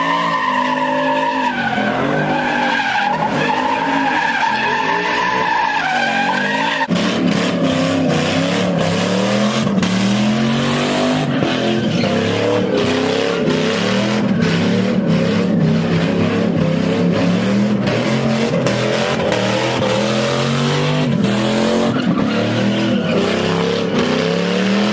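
A car engine revving up and down over and over, with tyres screeching, as a car does donuts. The sound changes abruptly about seven seconds in, and the revving then swings in a steady cycle of roughly a second and a half.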